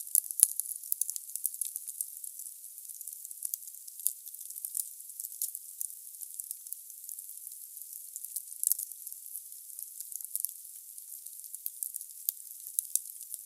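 Firewood burning in a fireplace, crackling: a steady high hiss with many small sharp pops at irregular intervals, the loudest about half a second in.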